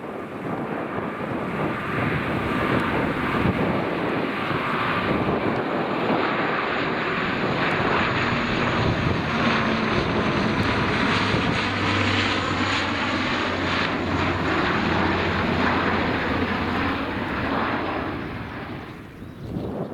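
Airliner passing overhead close to the airport, its engines loud and steady for about sixteen seconds. The sound swells in the first couple of seconds and fades away near the end.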